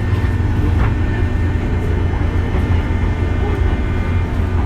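JR West 201 series electric train running, heard from inside the passenger car: a steady low rumble of wheels and running gear with a few light clicks.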